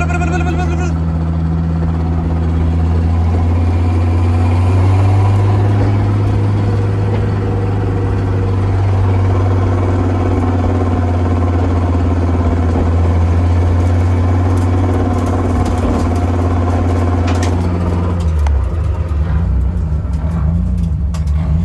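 Cabin sound of a 1995 BMW M3's swapped S54 straight-six pulling in third gear, with a heavy, deep drone and a rotating metal-on-metal rubbing from the transmission tunnel that comes only under throttle. The owner cannot tell whether it comes from inside the ZF five-speed gearbox or from the driveline. About 18 seconds in, the deep drone falls away.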